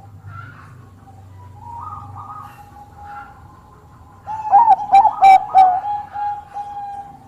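Bangkok-type zebra dove (perkutut) cooing. About four and a half seconds in comes a loud run of quick, bouncing coo notes, over a faint steady tone.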